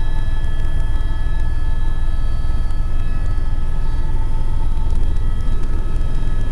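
Tour helicopter in flight: a steady, loud low rumble of rotor and engine with several steady high whining tones above it.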